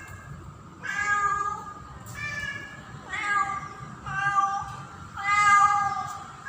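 Female domestic cat in heat calling for a male: about five drawn-out meows, each under a second long, coming roughly once a second.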